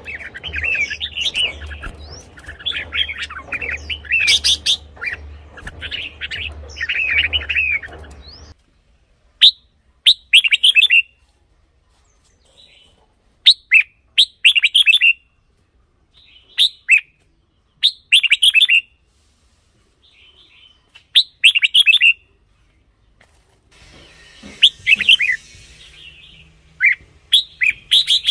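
Red-whiskered bulbuls singing short, loud, warbling phrases. At first the phrases come dense and overlapping; about a third of the way in they turn to single phrases every few seconds, and near the end they come close together again.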